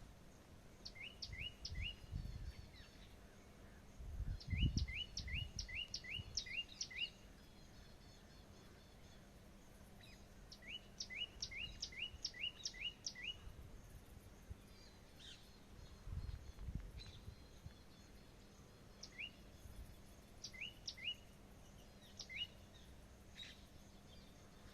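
A bird calling in repeated series of three to six short, quick rising notes, the series coming every few seconds with pauses between. A few low rumbles come and go under the calls, the strongest about four to five seconds in.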